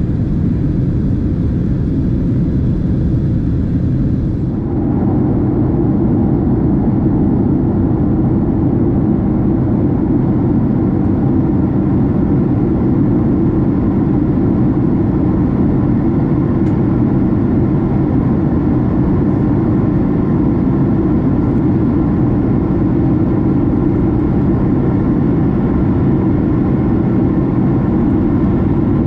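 Boeing 767 cabin noise: steady jet engine and airflow sound with a low hum, stepping up in level about four to five seconds in and then holding steady.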